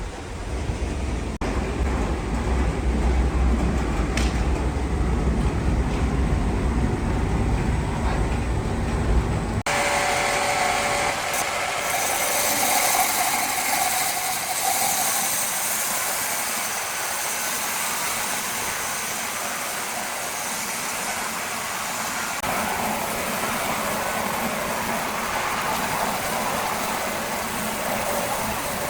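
Heavy machinery running steadily: a deep, engine-like rumble for the first third, then after an abrupt cut a steadier hissing, higher-pitched machine noise.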